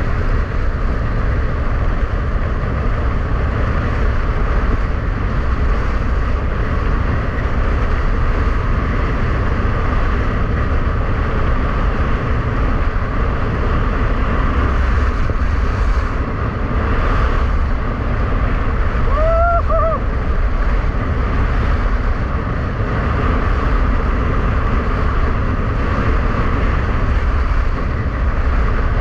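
Strong wind buffeting the microphone on a fast ski-wing run in a blizzard, a steady rush of noise with no letup. About two-thirds of the way through comes a brief pitched sound that bends up and down twice in quick succession.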